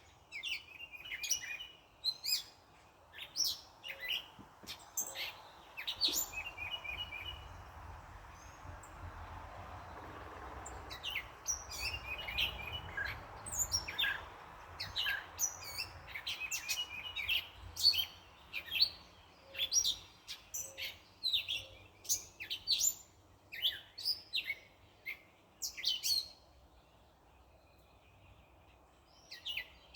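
Small birds chirping throughout, with short sharp calls and quick trilled runs of chirps. A car passes in the background, its road noise swelling and fading during the middle of the stretch.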